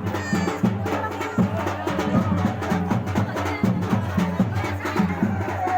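Drum music: drums beaten in a steady, quick rhythm of about three strokes a second.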